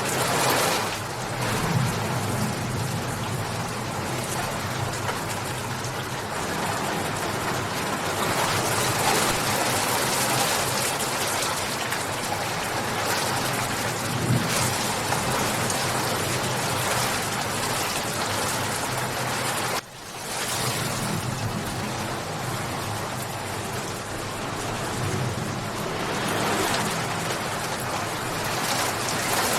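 Steady, fairly heavy rain falling and pattering on surfaces, an even hiss with no break except a sudden brief dip about two-thirds of the way through.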